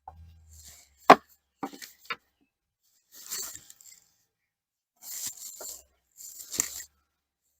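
Handling noises: a sharp knock about a second in, a couple of lighter knocks, then several short scraping, rustling bursts.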